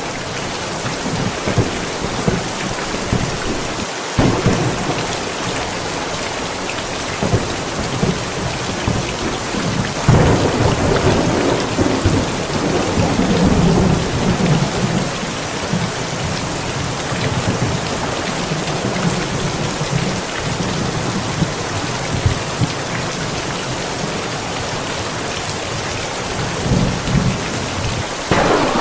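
Steady rain falling in a thunderstorm, with thunder rumbling under it. A long roll of thunder swells about a third of the way in and lasts several seconds, and another rumble builds near the end.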